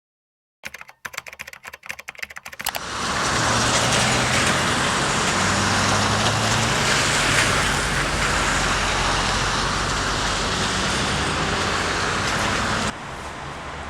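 A quick, irregular run of sharp taps for about two seconds, then traffic on rain-wet pavement: loud tyre hiss over a low engine hum. The hiss drops suddenly to a quieter level near the end.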